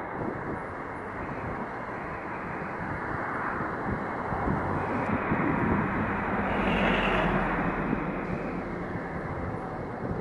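Passenger multiple unit running past on the nearby track. Its rolling noise swells to a peak about six to eight seconds in, then eases, over a steady background rumble.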